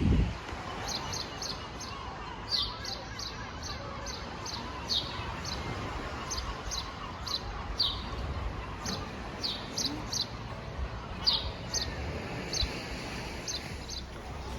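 Small bird chirping in short, high notes, about two or three a second, over a low steady rumble.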